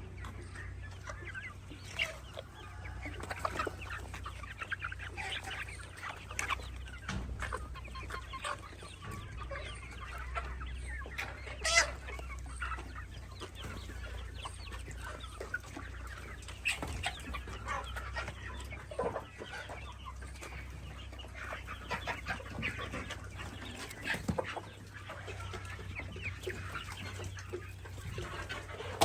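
A brood of baby chicks peeping: many short, high chirps overlapping without pause, with one sharper, louder sound about twelve seconds in. A steady low hum runs underneath.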